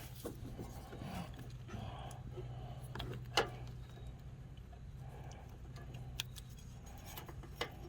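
Light, scattered metallic clicks and small rattles from a snowblower's auger control cable and its fittings being handled and laid into place, the sharpest click about halfway through, over a steady low hum.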